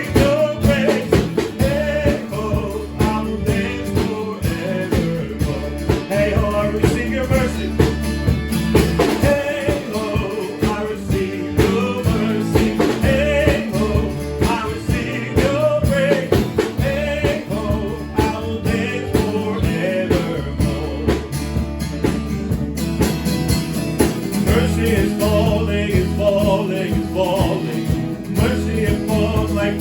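Worship band music: a sung melody over guitar and a bass line.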